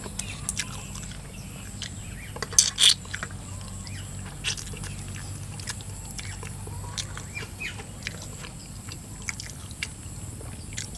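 People chewing mouthfuls of stir-fried eel and rice, with scattered small wet mouth clicks and two louder smacks about two and a half seconds in.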